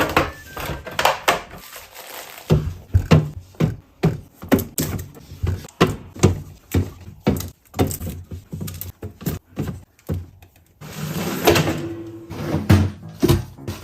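Kitchen items and containers being handled while a fridge is restocked: a quick, uneven run of knocks, taps and clicks as things are picked up and set down, with a brief lull and then a busier, noisier stretch about eleven seconds in.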